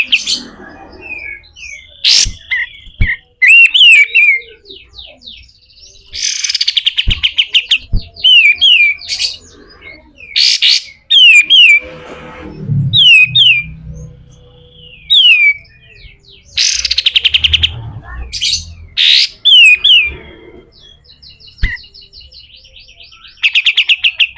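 Sooty-headed bulbul (kapas tembak) calling loudly. It gives quick series of short, falling whistled notes broken by repeated harsh, buzzy scolding rattles, the rough 'besetan' calls.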